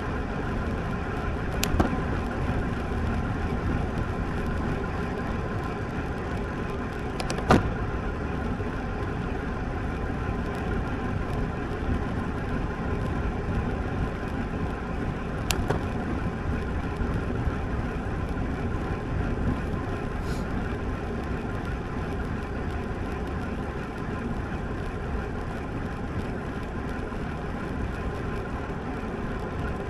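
Steady wind rush and tyre noise from a road bike on the move, with a few sharp clicks or knocks; the loudest comes about seven and a half seconds in.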